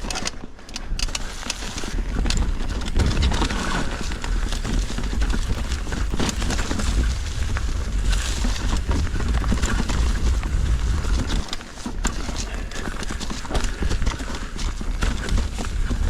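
Mountain bike riding over a rough trail: the tyres and frame rattle and knock irregularly over a steady low rumble.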